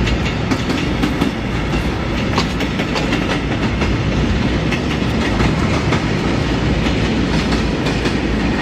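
Rumble of a train running along the track, heard from on board, with scattered sharp clicks from the wheels over the rails.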